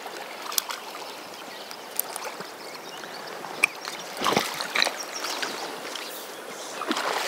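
Steady rush of a large river's current, with a few short splashes and knocks, the loudest about four seconds in.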